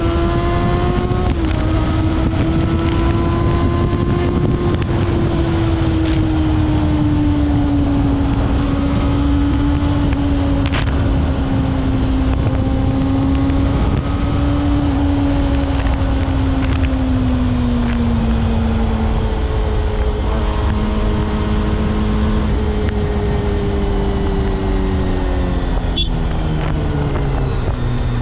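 Honda CBR250RR MC22's inline-four engine running at high revs under way, its note sliding slowly lower in pitch, then dipping and picking up again near the end. Low wind rush on the helmet camera sits under it.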